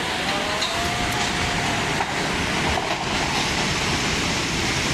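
Floodwater rushing through a city street, a steady heavy rush of water noise.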